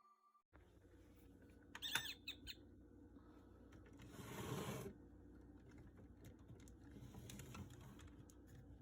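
Faint handling of a plastic toy: scattered light clicks, a brief squeak about two seconds in, and a soft rustle a little after four seconds.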